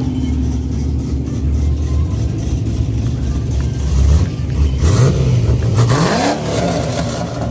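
A car engine runs with a low steady rumble, then is revved about six seconds in, its pitch climbing quickly.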